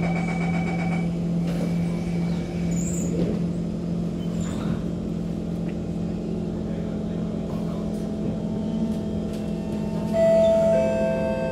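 Inside a Kawasaki C151 MRT train: a high repeated door-closing warning tone for about the first second, then a steady hum from the train's equipment while it stands. About ten seconds in, a louder whine with several tones starts up as the electric traction equipment powers the train away from the platform.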